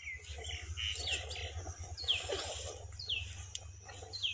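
A bird calling outdoors: a short whistled note falling in pitch, repeated about once a second, over a low steady rumble.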